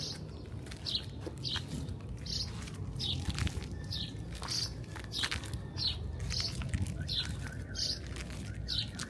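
Small birds chirping: short, high chirps repeating steadily, about one or two a second, over a steady low background rumble.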